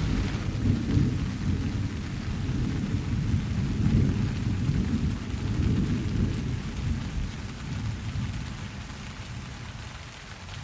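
Steady rain with a long roll of thunder rumbling underneath, which fades away near the end.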